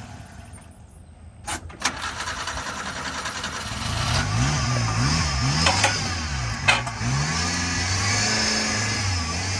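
A small mini-truck engine starts, then is revved up and down several times before settling to a steady run. A few sharp clicks come about a second and a half in, just before it catches.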